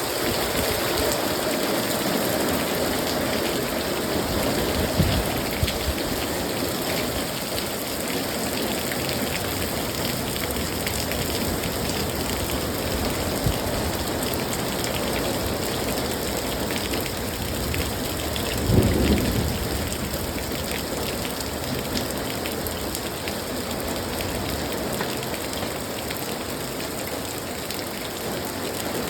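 Heavy downpour: dense, steady rain pouring and pattering on surfaces. A brief low rumble swells about two-thirds of the way through.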